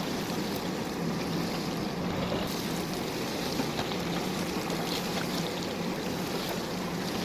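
JCB backhoe loader's diesel engine running steadily under a noisy wash, with a few faint ticks.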